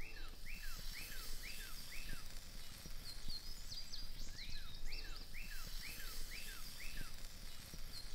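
Songbirds singing. One repeats a run of five or six whistled phrases, each a quick rise and a falling slur, about two a second. It sings the run twice with a pause between. A second, higher bird sings a faster series of notes between the runs and again near the end, over a steady low background rumble.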